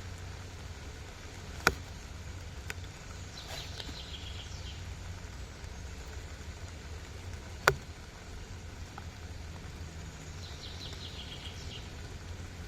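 A small bird sings a short trill of quick repeated high notes twice, over a steady low rumble. Two sharp cracks, like wood knocking or snapping, are the loudest sounds, about two seconds in and again near eight seconds.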